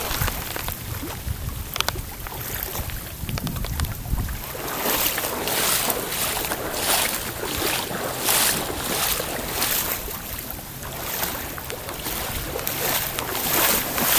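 Someone wading through knee-deep floodwater, the water sloshing with each stride about once a second, after a few seconds of wind rumbling on the microphone.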